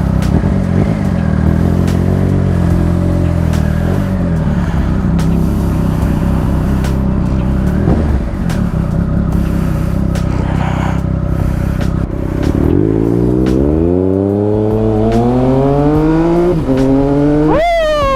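Triumph Speed Triple RS's inline three-cylinder engine through an SC Project titanium exhaust, running at steady low revs for about twelve seconds, then pulling up in rising revs, with a drop in pitch at a gear change and another sharp rise near the end.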